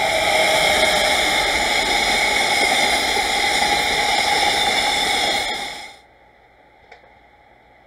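Work train of long-rail flat wagons hauled by a DD51 diesel locomotive passing close by, a loud steady rush of wheel and rail noise that cuts off suddenly about six seconds in.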